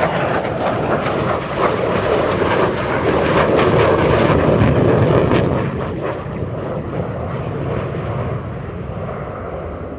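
Saab AJS 37 Viggen's Volvo RM8 turbofan jet engine as the aircraft passes in landing configuration, gear down: the jet noise builds to its loudest about four to five seconds in, then grows duller and fades as it moves away.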